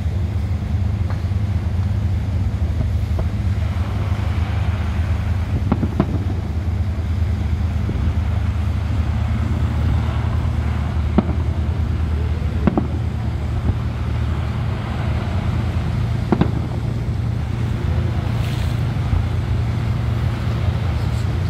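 Steady low drone of a river cruise boat's engine, with a few short, sharp pops or knocks scattered through.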